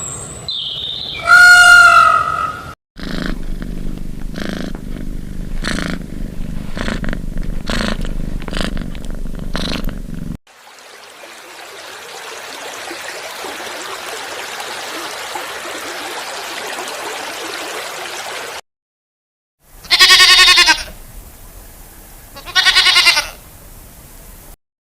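A run of short animal-sound clips cut one after another: a pitched call, a long low rhythmic rumbling stretch, a steady hiss, then two short bleating calls near the end.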